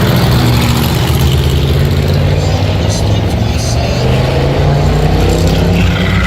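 Engines of a group of classic cars running as they come past, with a deep, steady drone and a rise in pitch partway through as they accelerate.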